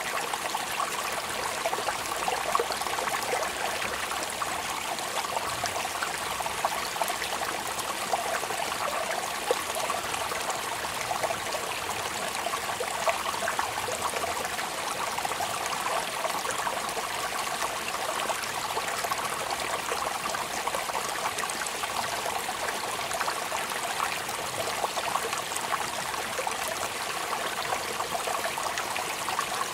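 Steady rain: a continuous hiss of falling and running water dotted with many small drop ticks.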